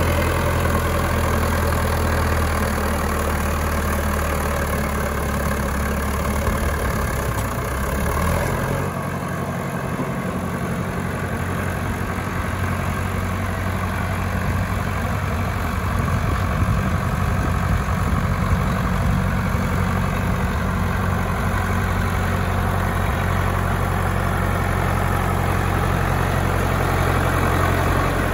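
Trident small-acreage tractor's engine running steadily, its note shifting about eight seconds in and then holding steady.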